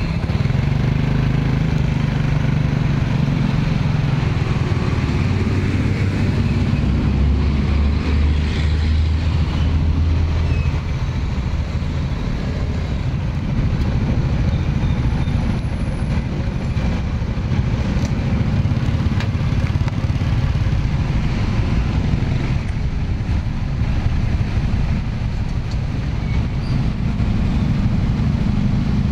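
Steady low rumble of motor traffic, with an engine hum that grows stronger about seven seconds in and fades about three seconds later.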